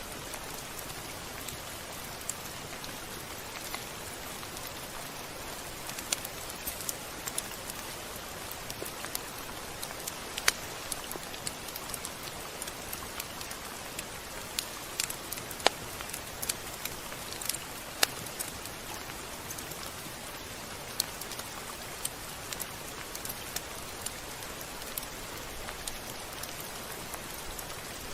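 Steady rain falling as an even hiss, with sharp drops ticking irregularly on a surface throughout.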